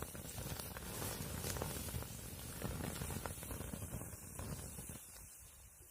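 Campfire burning: scattered crackles and pops over a low rumble, fading out near the end.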